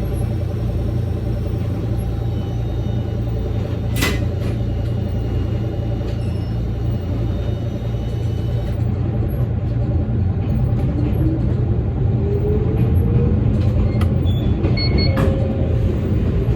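Electric train running along the track, with a steady low rumble. A sharp click comes about four seconds in, a faint rising whine follows about two-thirds of the way through, and a few more clicks come near the end.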